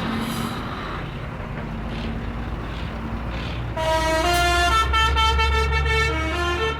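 Tractor engines running in a parade. About four seconds in, a horn sounds a run of changing notes, like a short tune, over a louder engine rumble.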